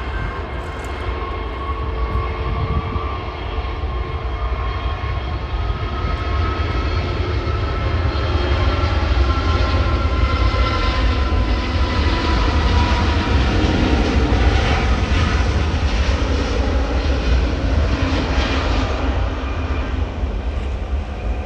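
Jet airliner on final approach passing close by, engines whining with a slowly falling pitch over a deep rumble. It grows louder through the middle and fades near the end.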